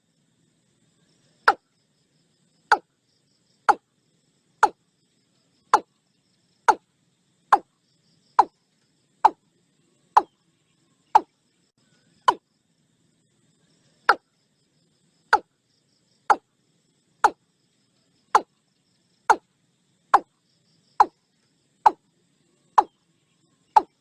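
Watercock calling: a series of short, hollow notes, each dropping quickly in pitch, given about once a second, with a pause of about two seconds near the middle.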